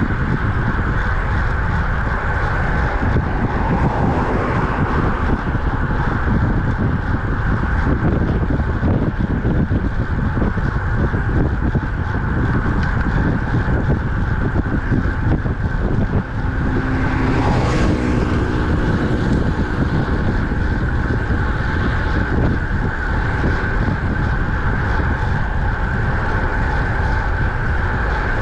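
Steady wind buffeting on the microphone with rumble from a road bike moving at speed. About 17 seconds in, a motor vehicle passes, its engine rising and falling over a couple of seconds.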